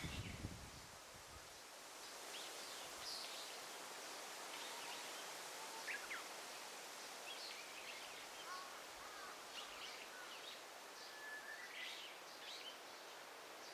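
Daytime forest ambience: a faint, steady hiss of rustling leaves with scattered short bird calls and chirps throughout. A brief low rumble sits in the first second or so.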